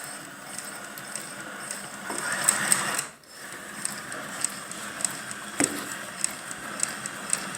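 Leather patch sewing machine stitching slowly, a sharp click with each stitch about every 0.6 s. A brief louder rush of noise comes about two seconds in, before the stitching settles into its even rhythm.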